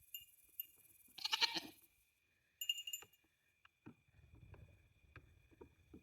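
A goat's bleating scream about a second in, loud and brief, over a steady high-pitched background tone.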